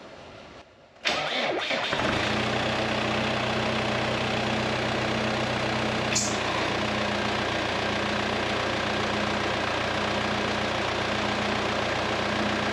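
A tractor engine being started: it cranks about a second in, catches, and settles into a steady idle. There is one sharp click about six seconds in.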